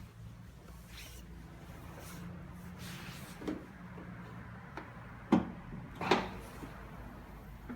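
A low, steady engine hum, plausibly the BMW M3's S65 V8 idling, with three sharp clunks in the second half that are louder than the engine. No regular tick stands out.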